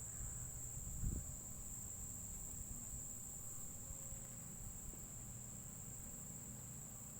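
Insects chirring in one steady high-pitched drone, over a faint low rumble, with a soft low thump about a second in.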